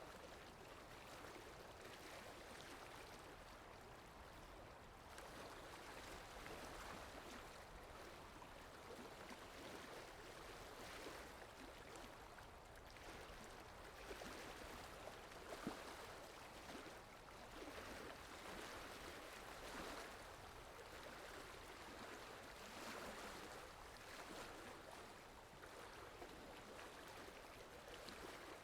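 Soft, steady rain falling, an even hiss of drops with one brief louder tap about halfway through.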